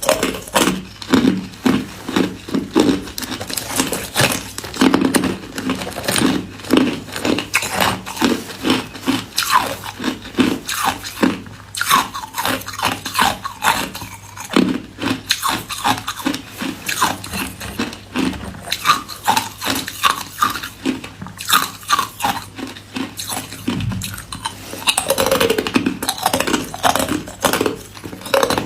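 Hard white ice cubes being bitten and chewed: a quick, steady run of sharp crunches, several a second.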